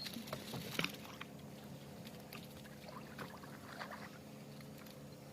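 Small boat engine running steadily at a low level, with scattered light knocks and splashes in the first few seconds.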